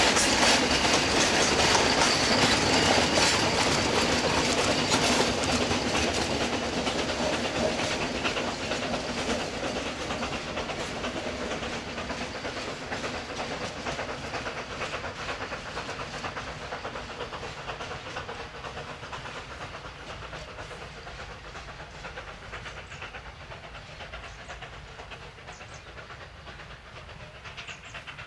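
C2 narrow-gauge steam locomotive and its train of wagons running past, wheels clattering over the rail joints. The sound is loud at first, then fades steadily as the train draws away.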